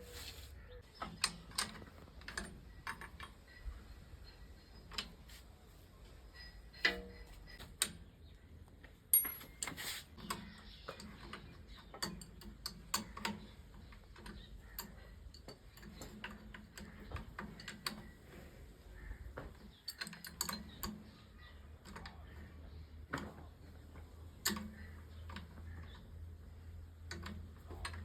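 Irregular clicks and knocks of hand tools at work on a tractor, a few seconds apart and uneven, over a faint steady low hum; no engine is running.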